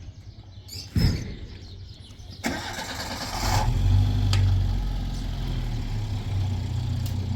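A thump about a second in, then an engine is cranked, catches and settles into a steady idle.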